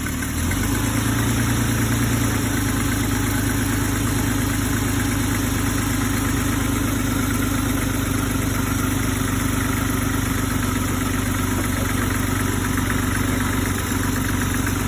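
1989 Dodge Dakota's engine idling steadily right after being jump-started on a weak battery, its idle settling slightly about two seconds in.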